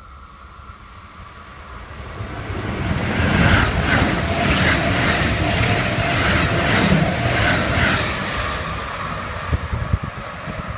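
A train approaching and rolling past, louder from about two seconds in, with a steady rumble and a regular clatter of wheels over rail joints, about two beats a second, before the sound begins to fade near the end.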